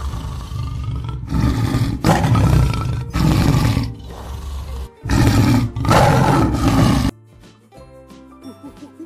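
Tiger roaring and growling in a series of about five loud, rough roars that stop abruptly about seven seconds in.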